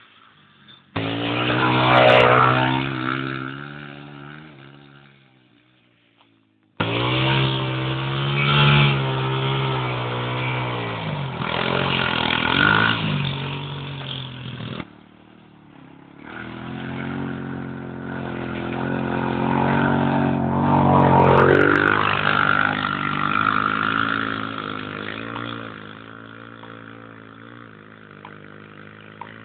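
A 250cc motorcycle engine revving and running under throttle, its pitch rising and falling. Twice it swells and then drops in pitch and fades away, as when a bike rides past. It settles to a steadier, quieter running note near the end.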